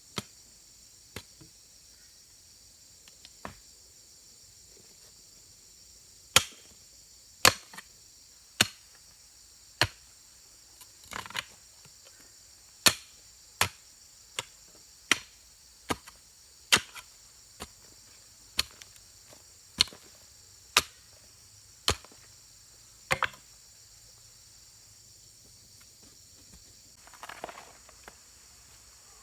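A run of sharp tool strikes, like chopping or hammering, about one a second for some seventeen seconds after a few lighter knocks, over a steady high chorus of insects such as crickets. A soft rustle follows near the end.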